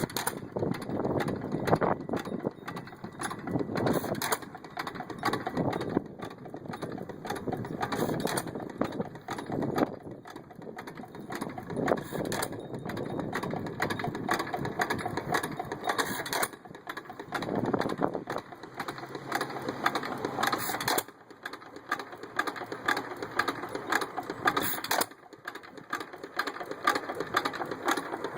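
1 1/2 HP Economy hit-and-miss stationary gas engine running on its own, its rapid beat swelling and falling back as it fires and coasts, with a sharp crack about every four seconds.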